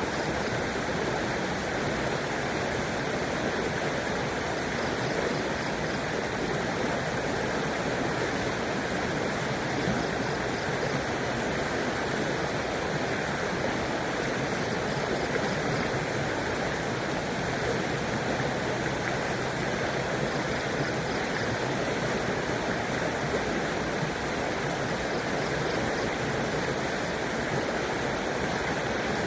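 A shallow river flowing steadily over rocks, a constant rushing and burbling of water with no breaks.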